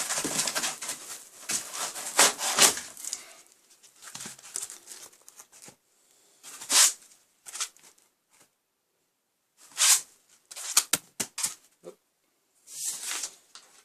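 Styrofoam packing blocks and packaging being handled and pulled out of a shipping box: rustling and scraping, a long spell at first, then short bursts with quiet gaps between.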